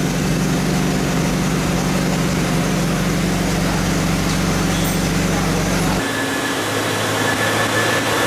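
McLaren 765LT's twin-turbo V8 idling on a chassis dyno, a steady drone under the rush of air from the dyno's cooling fans. About six seconds in the sound changes abruptly to a different steady drone with a thin high whine.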